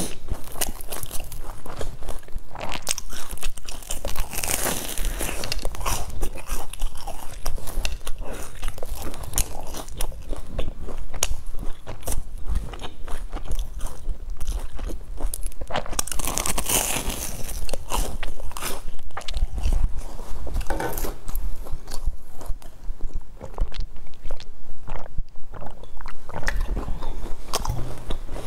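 Crisp crunching and chewing as a sesame-crusted fried bun is bitten and eaten close to the microphone. It is a dense run of small crackly crunches, with louder bursts of crunching about five seconds in and again around sixteen seconds.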